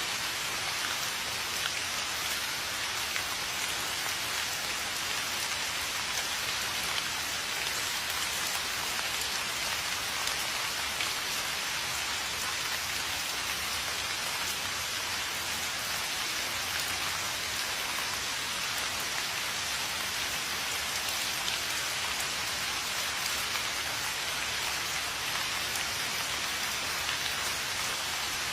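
Steady rain falling: an even hiss of many small drop impacts, unchanging throughout.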